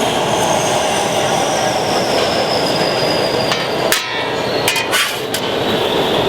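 Amana AXP high-speed convection/microwave oven's blower running loud and steady, with a thin high whine that slowly falls in pitch. A few sharp metallic clanks come about four to five seconds in.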